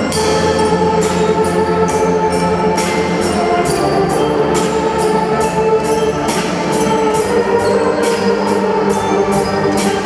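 Marching drum band playing: sustained brass chords over a steady beat of drum and cymbal strokes.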